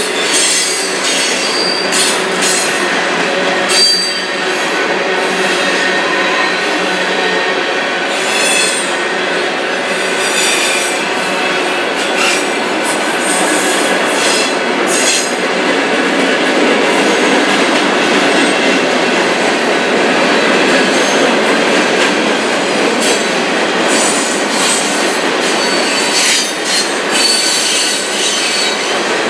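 Freight cars of a manifest train rolling past at close range: a steady, loud rumble of steel wheels on rail with scattered clacks over rail joints and intermittent high wheel squeal.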